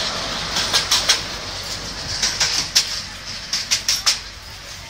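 Mini train's open passenger cars rolling past on the track, wheels clicking and rattling irregularly on the rails. The sound fades as the last car goes by.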